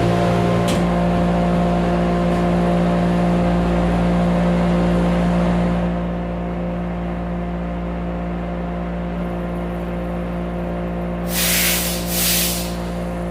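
Sandblasting cabinet running: a steady motor hum under the hiss of the blast gun's air and grit. The hiss eases about six seconds in, and two short hissing blasts come near the end.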